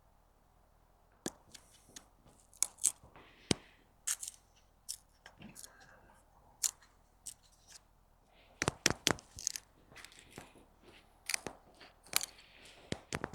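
Grohmann No. 3 boat knife shaving and carving wood, an irregular run of crisp cutting and crunching strokes that starts about a second in and comes thickest near the middle and the end.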